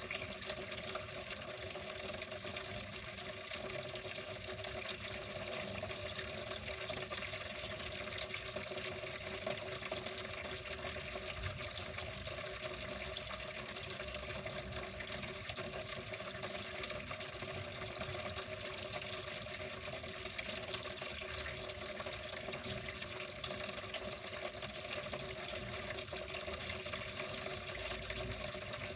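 Water flowing steadily, a continuous even rush with a faint steady hum.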